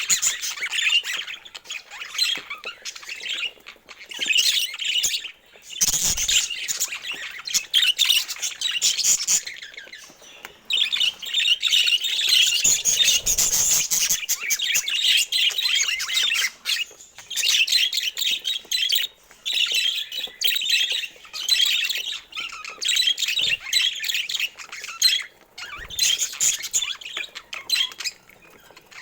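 Budgerigars chattering, with a constant warble of chirps and squawks broken by brief pauses.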